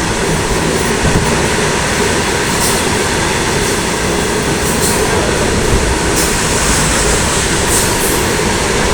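Goods train's wagons rolling past on the rails, a steady loud rumble with a few brief sharper clicks from the wheels.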